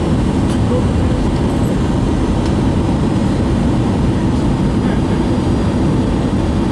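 Steady rumble inside the passenger cabin of an Airbus A320 in flight: engine and airflow noise, heaviest in the low range and unchanging throughout.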